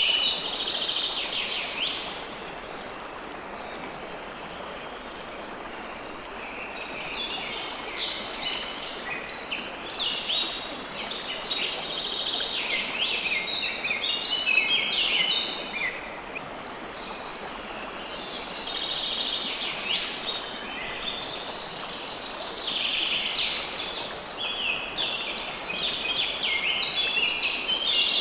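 River water flowing in a steady rush, with small birds chirping over it in busy bouts of quick notes. The birdsong drops away briefly about two seconds in and again a little past the middle.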